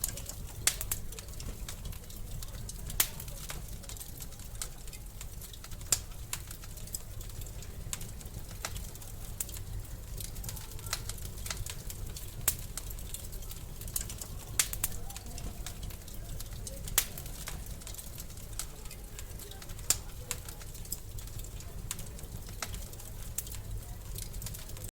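Wood fire crackling in a fireplace: sharp, irregular pops every second or few over a steady low rumble and faint hiss.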